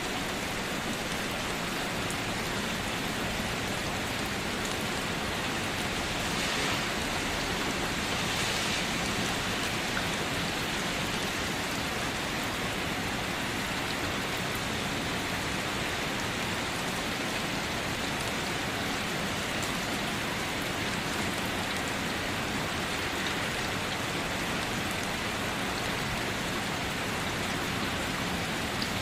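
Steady rain falling, an even hiss of many drops, swelling slightly twice around seven and nine seconds in.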